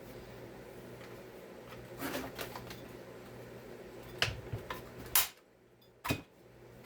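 A few sharp clicks and knocks from chainsaw parts and tools being handled on a workbench: a short cluster about two seconds in, several clicks around four seconds, the loudest just after five seconds and one more near the end.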